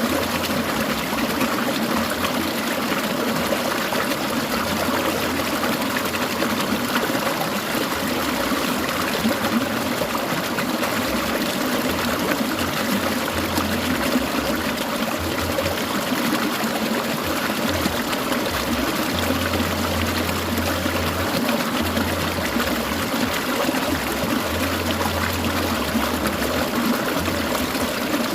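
Clear mountain stream water trickling and babbling in a steady flow.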